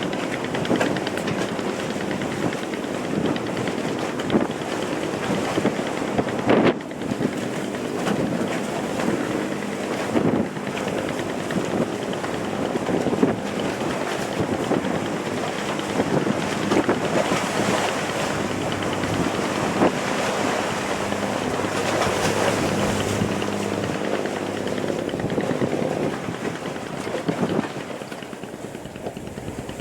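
Fishing boat underway: its engine runs with a steady drone under the rush of water and wind buffeting the microphone, with occasional knocks and splashes. It gets somewhat quieter near the end.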